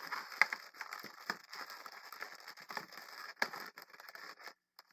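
Latex twisting balloons rubbing and crackling against each other and the hands as they are handled and twisted, with a few sharp clicks, the loudest about half a second in.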